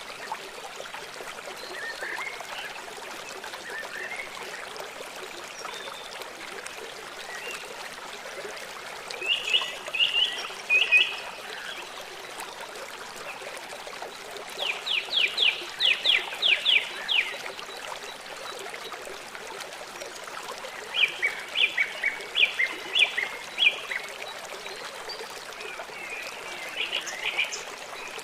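Birds calling in short bursts of quick repeated notes, the longest a run of about eight, over a steady trickle of running water.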